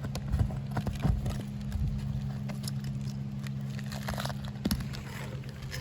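Irregular clicks, knocks and scrapes of nails being pried out of asphalt roof shingles, over a steady low hum.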